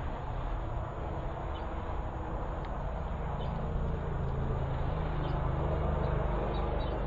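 Outdoor ambience with a steady low rumble and hum that swells slightly partway through, and faint, scattered short bird chirps.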